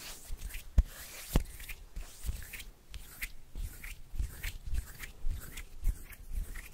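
Close-miked ASMR hand sounds: soft, irregular rubbing and light taps of the hands, with two sharp clicks in the first second and a half.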